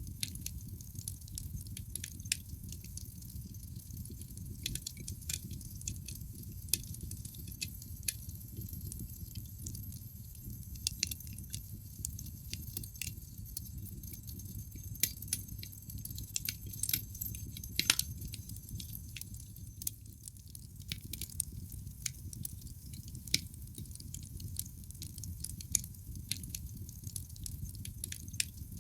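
Wood fire crackling in a fireplace: irregular snaps and pops of burning logs over a low steady rumble, with one louder pop about eighteen seconds in.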